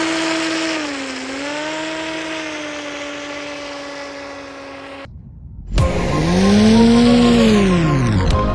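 RC car's motor whining at a steady pitch, dipping briefly about a second in. It cuts off about five seconds in, and after a short gap music starts with a loud rising-then-falling sweep.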